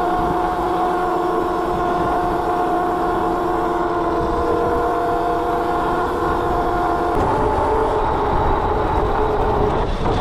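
Electric motor whining steadily over a low rumble, its pitch changing abruptly about seven seconds in.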